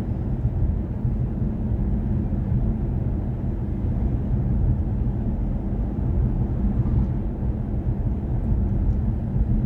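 Steady low rumble of road and tyre noise from a BMW i4 M50 electric car driving at a constant pace, with no engine note.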